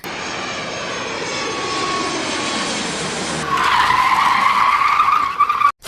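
Racing-car sound effect: an engine running, then tyres squealing from about three and a half seconds in. It cuts off suddenly near the end.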